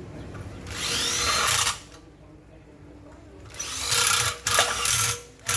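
Handheld power tool running in short bursts of about a second each, one early and two more back to back later, with pauses between.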